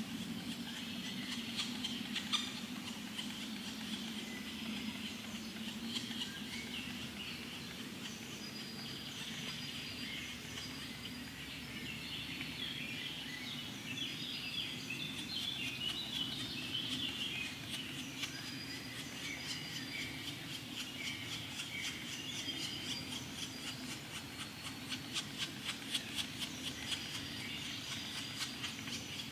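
Woodpecker chicks calling from the nest: a continuous chatter of many short, high chirps that quickens into a rapid run of clicking notes near the end, over a steady low hum.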